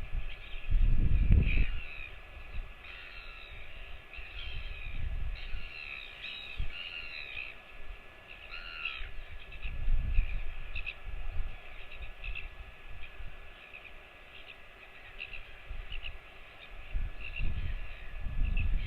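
Birds calling in a string of short, scattered notes, crow-like caws among them, over low rumbling surges of wind or handling noise on the microphone.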